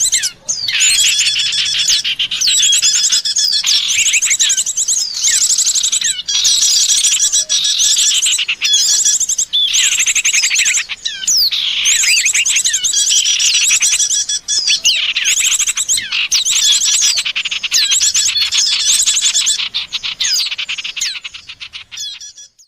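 A bird-luring recording of small songbirds chirping and trilling, high and busy. Fast runs of repeated notes and quick falling chirps come in overlapping bursts every second or two, then fade out at the very end.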